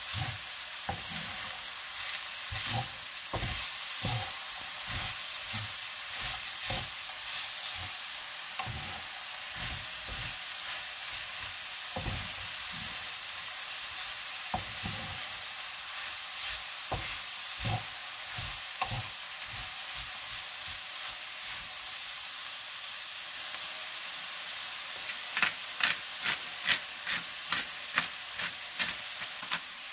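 Ground meat with diced bell peppers frying in a ceramic-coated pan, sizzling steadily while a wooden spatula stirs and scrapes through it in irregular strokes. Near the end comes a quick run of sharp ticks.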